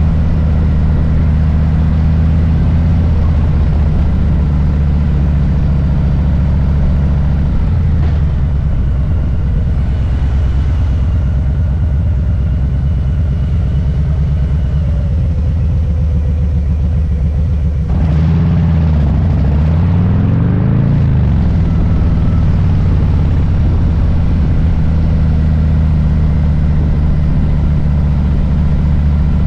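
Harley-Davidson Low Rider S's Milwaukee-Eight V-twin running at low revs with a deep, steady rumble. About two-thirds of the way through, its pitch rises as the bike accelerates, then settles back to a steady note.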